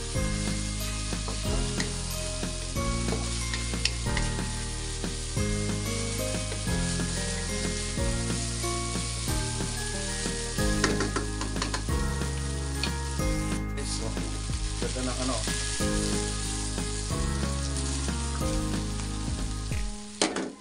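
Ground pork and onions frying in oil in a wok, sizzling steadily while a wooden spatula stirs and scrapes through them with small clicks. A background music track with held low notes runs underneath.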